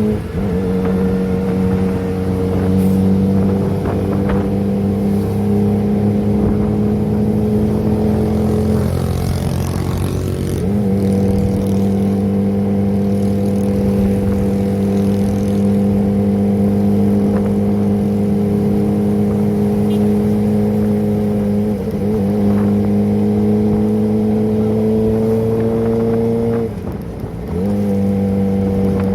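Kawasaki ZX-25R's four-cylinder engine through a Prospeed aftermarket exhaust, running on the move at a steady, fairly high pitch. The note drops briefly about a third of the way in, again about three quarters through and shortly before the end, then picks up at the same pitch.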